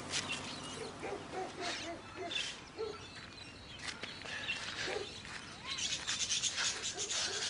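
Birds chirping and calling in short, scattered notes, growing busier about six seconds in.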